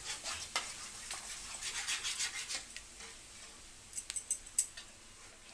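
Spatula scraping and clicking against a cooking pan while masala is stirred and fried. There is a quick run of scrapes for the first few seconds, then a few sharper clinks about four seconds in.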